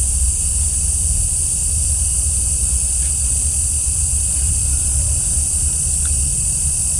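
A steady, high-pitched drone of night insects, such as crickets or cicadas, under a constant low rumble, with a couple of faint ticks.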